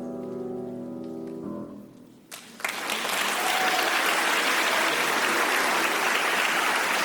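The song's final held chord dies away, and after a brief pause audience applause breaks out about two and a half seconds in and continues.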